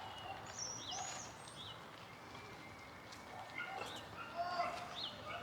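Small birds chirping and singing: many short, quick calls that rise and fall in pitch, over faint background noise.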